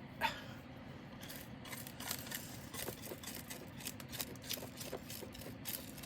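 Light clicking and rattling of loose resin diamond-painting drills being tipped and scraped off the canvas, many small ticks with a sharper tap just after the start.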